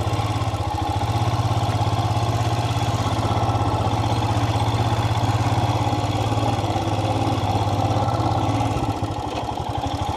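Royal Enfield motorcycle engine running with a steady, even beat of exhaust pulses. It drops lower about nine seconds in, then picks up again near the end.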